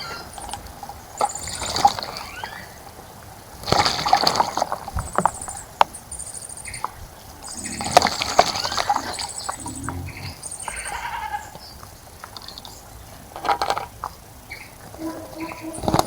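Birds bathing in a bird bath: several short bursts of wing-fluttering splashing, with high chirps and short rising bird calls between them.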